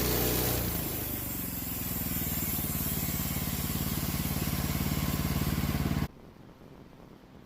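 Sawmill engine running at speed, then dropping to a slower, pulsing idle about half a second in; the sound cuts off abruptly about six seconds in.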